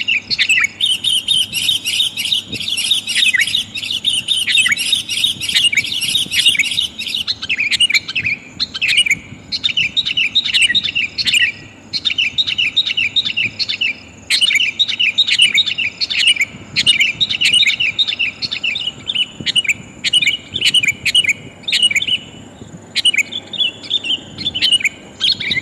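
Sooty-headed bulbul calling, a rapid chatter of loud, high chirps in bouts broken by short pauses. The recording is offered as a female's call to lure wild males.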